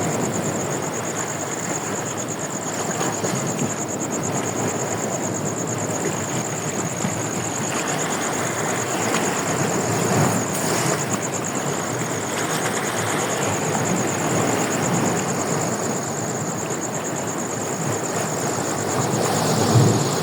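Steady rush of ocean surf mixed with wind on the microphone, swelling a little now and then, with a thin high-pitched pulsing whine running over it.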